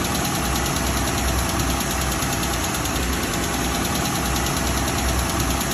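2012 Jeep Wrangler JK's 3.6-litre Pentastar V6 idling steadily with a pronounced ticking from the valvetrain: the sign of an imminent rocker arm failure.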